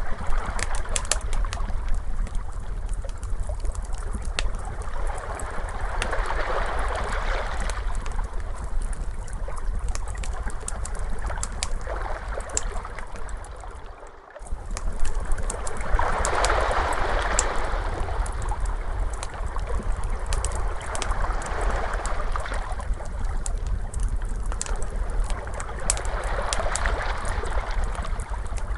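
Ocean waves washing in slow surges about every five seconds over a constant low rumble, with a wood fire crackling in sharp pops throughout. The sound dips briefly about halfway through and comes straight back.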